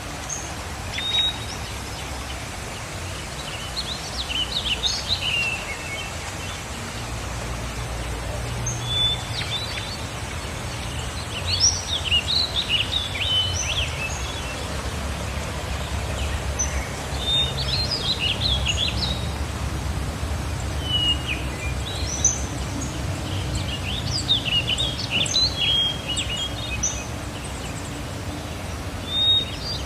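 Small birds chirping and singing in short, quick phrases of high notes, in clusters of calls throughout, over a steady low rumble.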